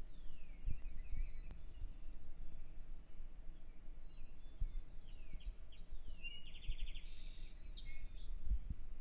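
Several small birds singing at dawn: rapid high trills and short falling whistled notes, building into a busier mix of overlapping songs about six seconds in. A low rumble and a few low thumps run underneath.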